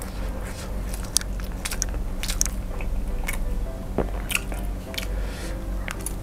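Close-miked chewing and biting of a sausage in thick gochujang sauce: irregular wet mouth clicks and smacks, with another bite near the end, over soft background music.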